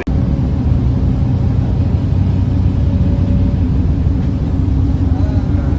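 Loud, steady low rumble with no clear pitch or rhythm.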